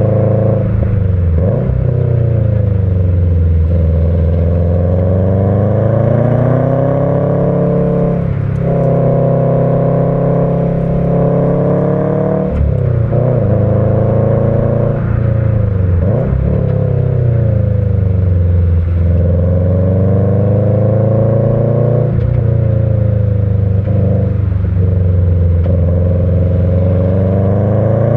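Subaru EJ20 turbo flat-four with a stock unequal-length exhaust header and a Kakimoto Regu.06&R muffler, giving the uneven boxer rumble, pulling hard under load. Its pitch climbs and drops again and again as the car is driven through the gears of a five-speed manual, rising under throttle and falling off on shifts and lifts.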